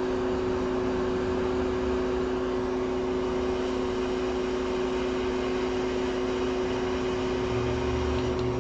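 Steady whir of an electric fan, with a constant hum of two steady tones over even air noise.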